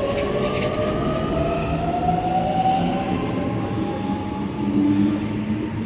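Sydney Millennium electric multiple unit pulling away from the platform: its traction motors whine in a slowly rising pitch as it accelerates, over the steady rumble of the carriages.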